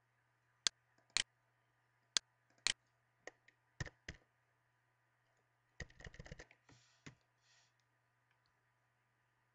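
Computer mouse and keyboard clicks: several sharp single clicks in the first four seconds, then a fast run of keystrokes about six seconds in as text is deleted, and a few more single keystrokes as new text is typed. A faint steady hum runs underneath.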